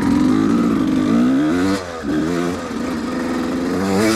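1993 Yamaha YZ250's two-stroke single-cylinder engine revving, its pitch falling and rising with the throttle; loudest in the first two seconds, it dips briefly, then runs on at a steadier pitch.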